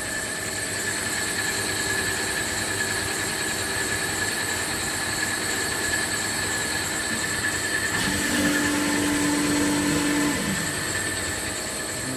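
CNC machine running through its program, a steady machining noise with fixed high-pitched whines. A lower hum comes in about eight seconds in and fades out about two seconds later.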